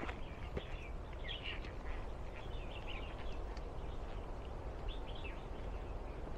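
Birds calling in short chirps that come in small groups every second or two, over a steady low background rumble.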